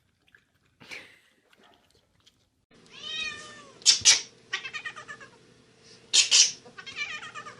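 A cat meowing repeatedly, starting about three seconds in. Some calls are long and bend in pitch, others are short, sharp and loud. A steady hum runs under the calls, and there is one faint tap about a second in.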